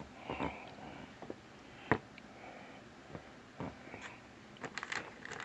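Faint handling noises: scattered clicks and taps, with one sharper knock about two seconds in and a quick run of clicks near the end.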